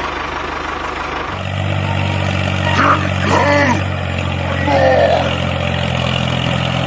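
Engine sound running steadily: a rattling drone at first, settling about a second in into a steady low hum, with a few short swooping pitched sounds over it.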